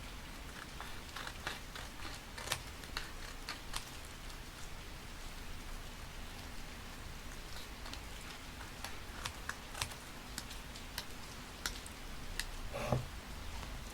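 Scattered light taps and crinkles of paper and stickers being handled, over a steady background of rain.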